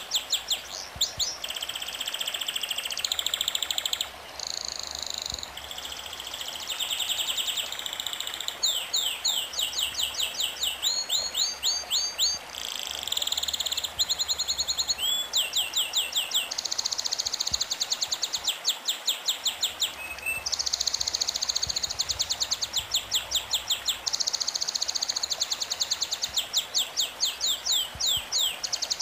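Songbirds singing: fast series of high chirps and trills in repeated phrases, with short pauses between phrases, over a steady background hiss.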